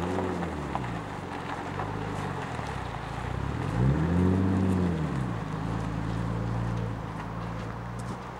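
Nissan Skyline R33's engine revving as the car pulls away: a short rev that rises and falls at the start, a longer, louder rise and fall about four seconds in, then steady running at low revs.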